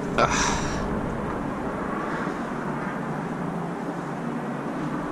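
Steady outdoor city hum heard from a high balcony: the even rumble and hiss of distant traffic, with a low rumble of wind on the microphone. A short hiss comes just after the start.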